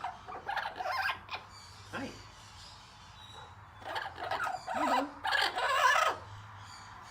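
Parrot vocalizing in irregular short bursts of chatter and squawks, loudest about four to six seconds in.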